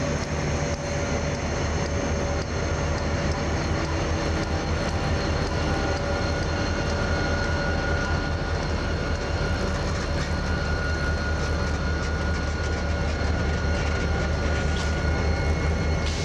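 CSX freight train with diesel locomotives running by, a steady heavy rumble with a few faint, thin high tones over it.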